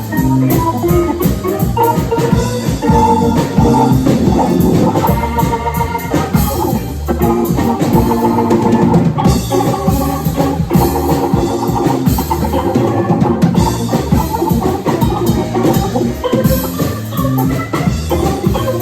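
Live band playing an instrumental passage with no singing: sustained organ chords over a steady drum kit beat.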